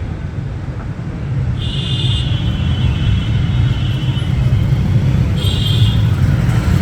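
Steady low rumble of vehicle traffic or a running engine, growing a little louder after about a second. Two short high-pitched tones come about one and a half and five and a half seconds in.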